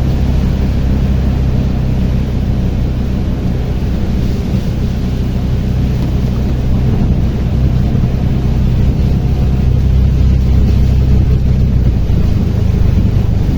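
Tuktuk (auto-rickshaw) engine running steadily while the vehicle drives along, heard from inside the cab with road and rushing noise; the engine note drops about twelve seconds in.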